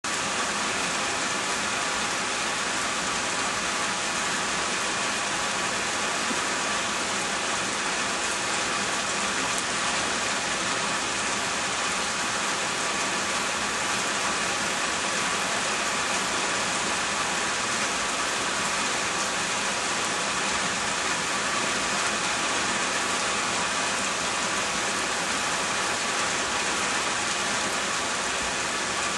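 Steady rain falling and pattering on surfaces, an even hiss that stays the same throughout.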